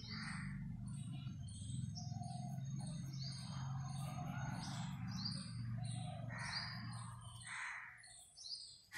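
Small birds chirping in the background, short high chirps repeating several times a second, over a low steady hum that fades out near the end. A few soft scratches of a felt-tip pen drawing on paper.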